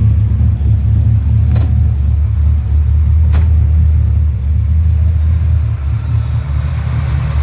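349 cubic-inch Ford small-block stroker V8 idling steadily while still cold, shortly after a cold start, with its idle air control valve held wide open to give the cold engine extra air.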